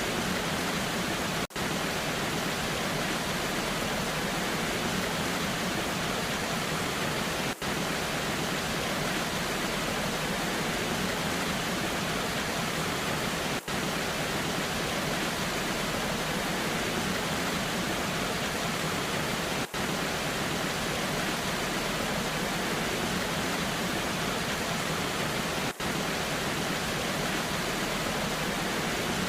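Steady rushing hiss of a waterfall in the rain. Five very brief dips in level come about every six seconds, the seams of a short repeating loop.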